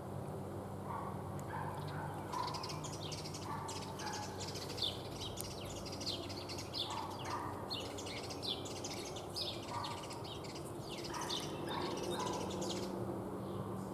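Small songbirds chirping: a busy run of quick, high chirps with some lower call notes mixed in, over a steady low background hum.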